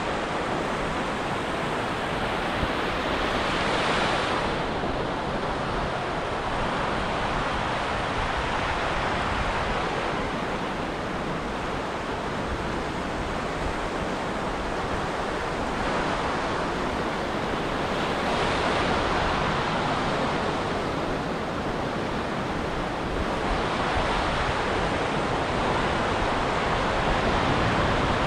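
Ocean surf washing onto a beach: a steady rushing noise that swells as a wave breaks, roughly every five or six seconds.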